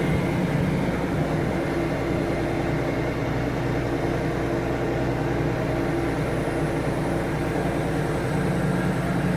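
Tractor engine running steadily, a constant low drone, as the tractor pulls a stump out on a rope through snatch blocks.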